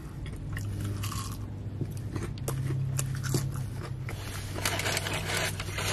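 Chewing of a crunchy breaded, fried mozzarella stick: a run of short crisp crunches over a steady low hum.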